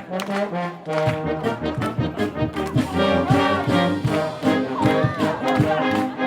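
A wind band plays, with brass leading in full sustained chords over a steady percussion beat.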